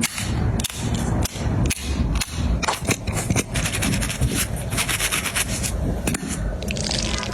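Close rubbing and scraping with many irregular knocks and thuds.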